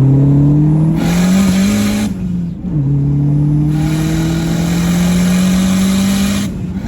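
Big-turbo Dodge SRT-4's turbocharged 2.4-litre four-cylinder accelerating hard through the gears. The engine note climbs, drops at a gear change about two and a half seconds in, then climbs again through the next gear with a rushing hiss over the top, and shifts again near the end.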